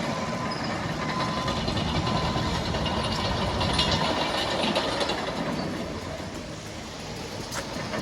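Diesel engines of heavy demolition-site machinery (excavators and lorries) running steadily, with some clatter in the middle and a slight easing near the end.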